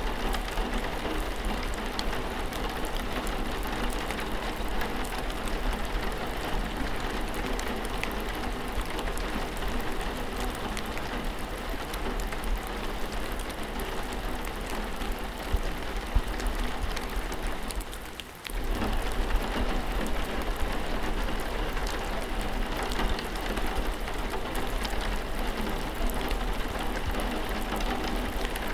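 Steady rain falling and pattering on surfaces. The sound briefly drops away about two thirds of the way through, then returns.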